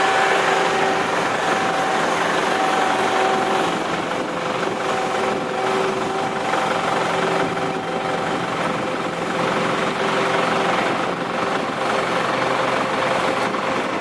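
Boeing 747-400 freighter's jet engines running steadily: an even rush of noise with a faint whine.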